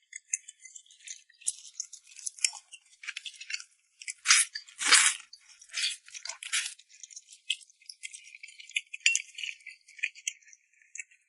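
Eating sounds from rice noodles tossed in red chili oil: irregular wet crackling and clicking, loudest about four to five seconds in.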